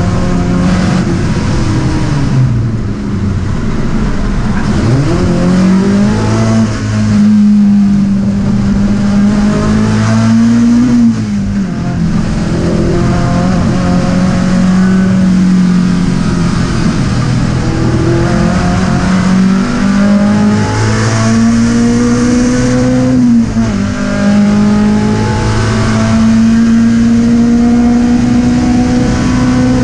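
Skoda 130RS's rear-mounted four-cylinder race engine running hard at high revs, heard from inside the cabin. Its pitch climbs slowly and several times drops and climbs back as the driver lifts off and changes gear.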